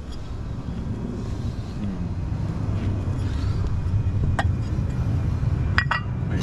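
Low engine rumble slowly growing louder, with a few sharp clicks about four and six seconds in.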